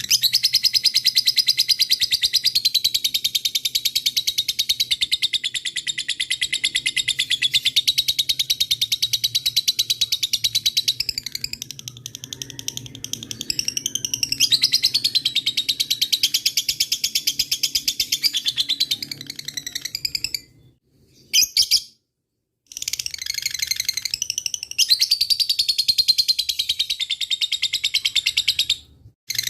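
Lovebird 'ngekek': a long, very fast chattering trill, held for many seconds at a stretch with small rises and falls in pitch. It breaks off for a moment about two-thirds through and again just before the end.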